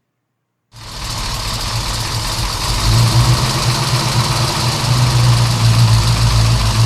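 A vehicle engine running steadily with a deep hum and a hiss over it, starting suddenly about a second in and cutting off abruptly just after the end.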